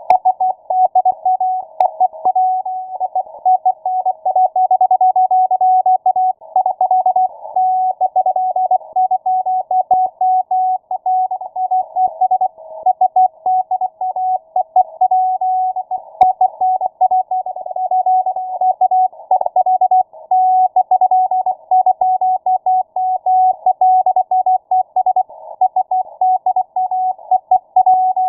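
Morse code received on shortwave: a single mid-pitched beep keyed on and off in rapid dots and dashes, heard through a narrow receiver filter that leaves a thin band of static hiss around it.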